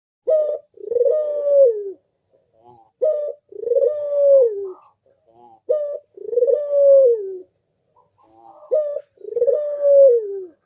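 A puter collared dove cooing its rhythmic manggung song: four phrases about every three seconds, each a short coo followed by a longer one that drops in pitch at the end.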